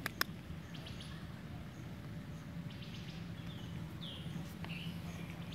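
Outdoor ambience: a few short, faint bird chirps a few seconds in, over a steady low hum, with a couple of sharp clicks right at the start.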